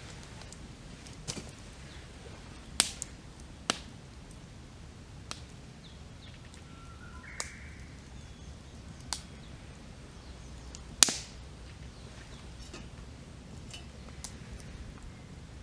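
Wood campfire crackling, with sharp irregular pops, the loudest about eleven seconds in. Faint short bird calls, one about halfway through.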